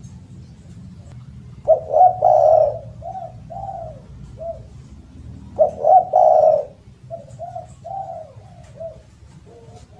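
Spotted dove (derkuku) cooing loudly: two full calls, each a strong opening coo followed by three or four shorter coos that fade off, over a steady low background hum.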